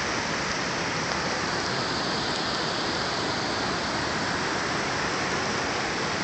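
Steady rushing of floodwater: a lake turned into a fast, violent river by water released through the opened floodgates of a dam upstream.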